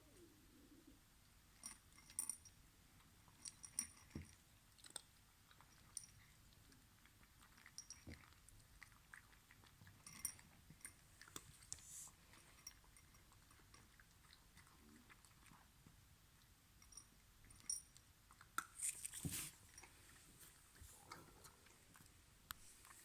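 A Ragdoll cat crunching Monpetit Crispy Kiss dry cat treats: faint, irregular crunches and clicks, with a louder cluster of crunches near the end.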